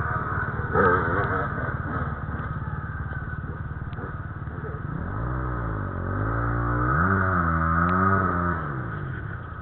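Off-road motorcycle engine running. A little past halfway its pitch rises and falls several times as the throttle is opened and closed, then it fades.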